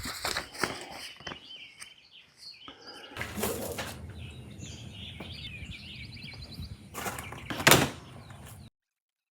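Birds chirping with bursts of rustling and clattering as canopy parts are handled, in short edited pieces; the sound cuts off abruptly to silence near the end.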